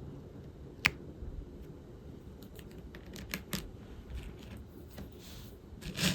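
Small plastic clicks and taps from diamond painting work: the drill pen and resin drills tapping and rattling against the tray and canvas. One sharp click comes about a second in, a quick run of clicks follows in the middle, and a brief louder rattle comes near the end.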